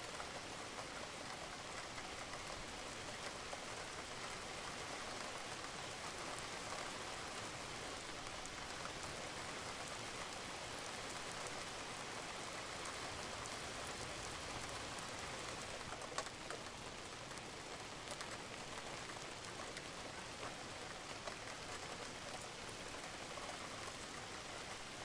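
Steady rain falling on a roof, with scattered drops ticking and one sharper drip about 16 seconds in.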